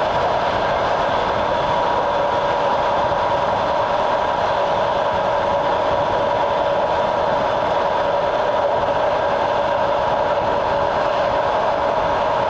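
Train running steadily along the track, heard on board: an even rumble of wheels on rail with a steady two-tone whine.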